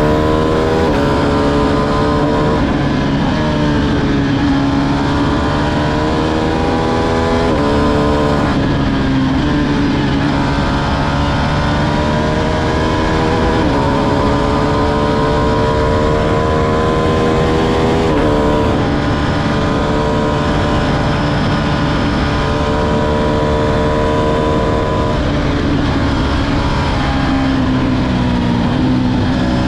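Ducati Streetfighter V2's 955 cc L-twin engine running under way. Its pitch climbs and falls slowly and steps suddenly a few times, over a steady rush of wind and road noise.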